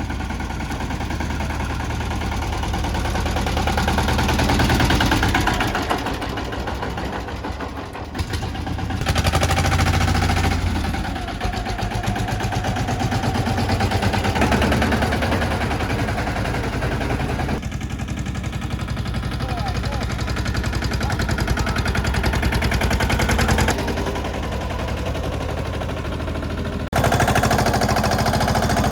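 Mini tractor engine running with a fast, even pulsing beat. The sound jumps abruptly several times, as at cuts between shots.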